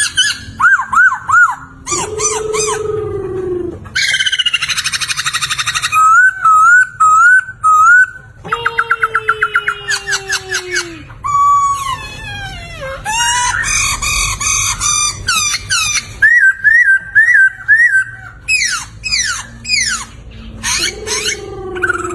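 Poksay (laughingthrush) singing loud, varied phrases: runs of repeated up-and-down whistled notes, buzzy rattling stretches, quick trills and long downward slurs, with short pauses between phrases.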